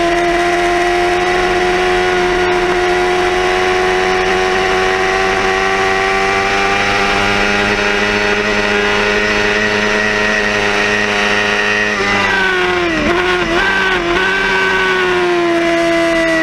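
Yamaha R6 5EB inline-four race engine heard onboard at high revs, its pitch climbing slowly as it pulls hard along a straight, with wind rush on the mic. About twelve seconds in the revs dip and recover several times in quick succession, as the rider shifts down for the coming corner.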